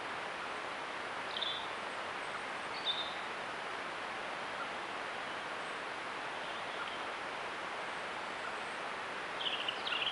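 Steady hiss of a trail camera recording outdoors, with short high bird chirps about a second and a half in and about three seconds in, and a quick run of chirps near the end.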